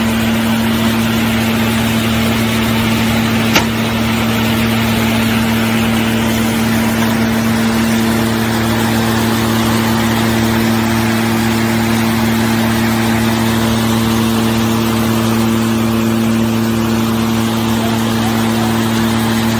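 Hay baler machine running with its engine at a steady speed, an even hum with mechanical noise that does not change. One sharp click about three and a half seconds in.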